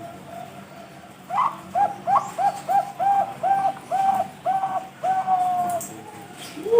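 Zebra dove (perkutut bangkok) singing: a fainter cooing, then a quick run of about ten short, evenly spaced coos starting about a second in, the last one drawn out. A louder rising call cuts in at the very end.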